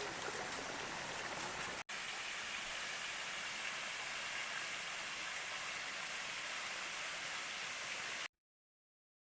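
Steady rushing of a flowing stream, broken by a brief cut about two seconds in and stopping abruptly near the end.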